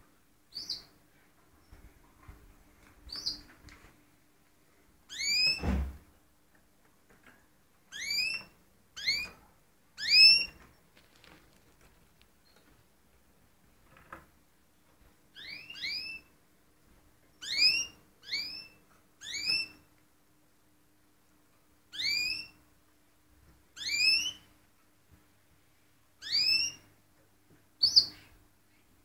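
Canaries giving short, rising call notes, one every second or two and sometimes in quick pairs, rather than a continuous song. A soft thump sounds about six seconds in.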